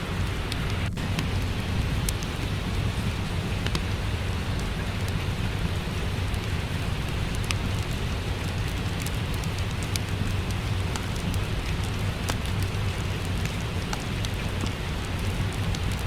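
Steady rain with a low rumble underneath, mixed with a wood fire's scattered small, sharp crackles and pops.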